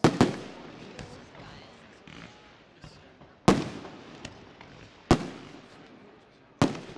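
Aerial fireworks shells bursting: a quick pair of loud bangs at the start, then three more single bangs spread through the rest, each trailing off in a rolling echo, with fainter pops in between.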